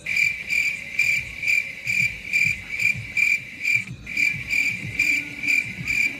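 Cricket chirping, a high even trill repeating steadily about twice a second.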